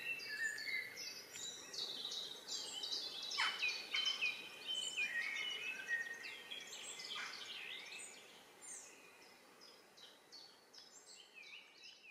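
Songbirds chirping and singing, many short, quick notes over a light background hiss, fading out over the last few seconds.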